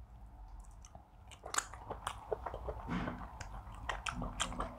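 Close-miked eating sounds: wet mouth smacks and chewing of pounded yam and okra soup eaten by hand, as sparse sharp clicks that start about a second and a half in.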